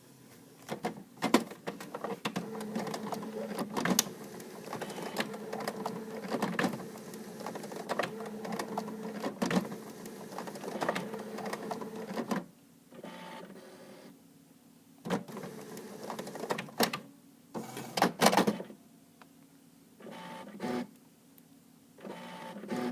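Home printer's mechanism running with clicks and clacks: a steady whirring with a couple of held pitches for about ten seconds, then a series of short separate bursts of motor noise and a few sharp clacks. This is the weird printer noise the owner found scary.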